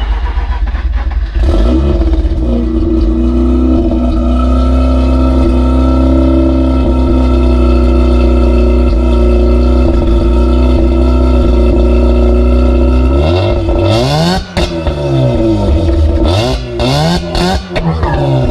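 Mazda RX-8's twin-rotor Wankel rotary engine just started from cold, running at a steady fast idle through an aftermarket exhaust. In the last few seconds it is revved up and down several times.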